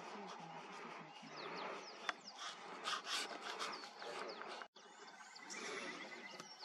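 Wild birds chirping in the bush: many short, high calls over steady outdoor ambience, with a sudden brief dropout about two-thirds through.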